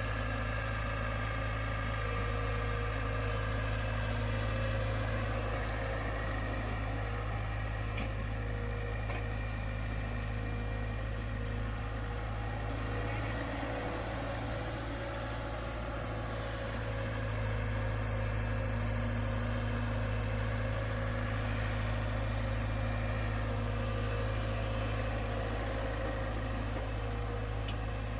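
Tractor engine running steadily under load, easing slightly for a few seconds around the middle.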